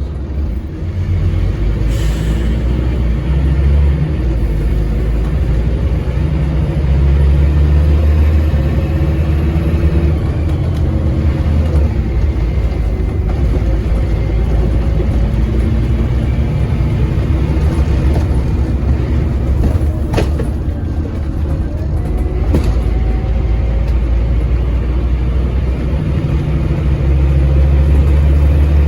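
Scania N230UD double-decker bus's nine-litre five-cylinder diesel pulling hard at full throttle, its engine note rising in stretches as the ZF Ecomat automatic gearbox holds each gear long before changing up. A few sharp knocks and rattles come through over the engine.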